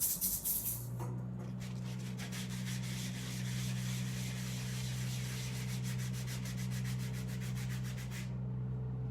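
Pool noodle scraper scraped in fast, even strokes, a rasping rub like light rain, which stops about eight seconds in. A steady low hum sits underneath.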